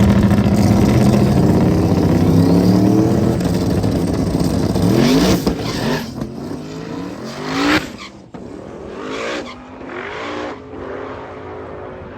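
Small-tire drag race car running down the strip. The engine is loud for the first five seconds, rises in pitch through several gear changes, and is then quieter, with shorter revs near the end.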